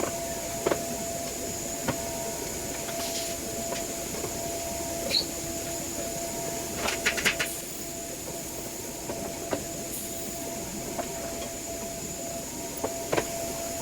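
TIG welding arc on stainless steel: a steady hiss carrying a faint steady tone, broken by scattered small clicks and a short burst of crackling about seven seconds in.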